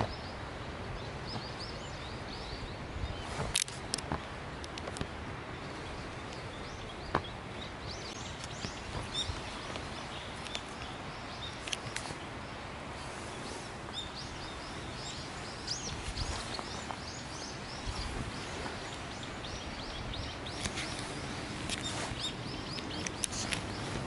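Small birds chirping in short repeated calls over a steady outdoor hiss, with a few sharp clicks.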